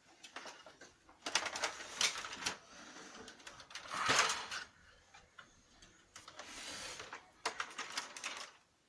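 Irregular clicks and short plastic-and-metal clattering from a Lexmark X364dn laser printer's mechanism and parts, in uneven bursts with no steady running sound.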